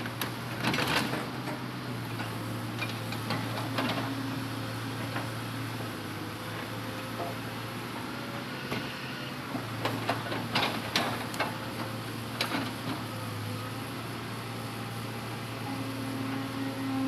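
Hitachi Zaxis 200-5G excavator's diesel engine running at a steady hum while it loads logs, with scattered knocks and clatters of log handling, the loudest clusters about a second in and around ten seconds in.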